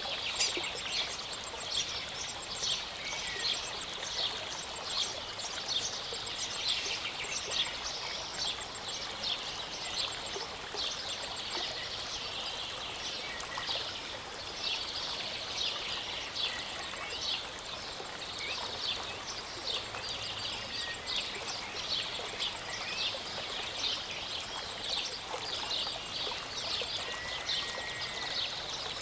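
Small mountain stream and waterfall running steadily, trickling and splashing, with birds chirping over it and a short whistled bird note near the end.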